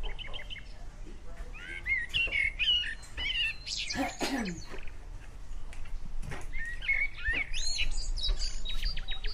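Birds chirping and whistling outside in quick, twisting phrases, with one louder call sweeping steeply downward about four seconds in.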